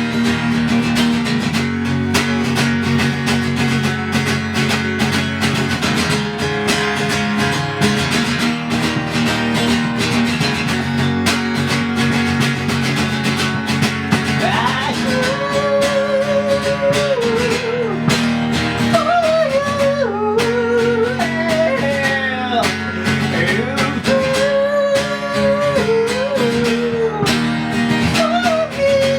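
Band music with guitar playing an instrumental passage. About halfway through, a high lead melody with bends and vibrato comes in over the steady backing.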